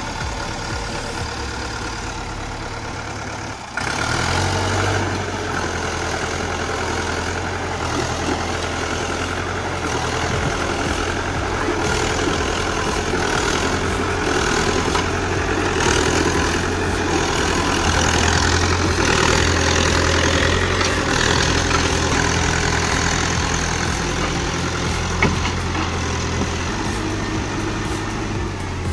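Rakovica 65 tractor's diesel engine running steadily while it drags a heavy load of timber. It gets louder about four seconds in and eases back near the end.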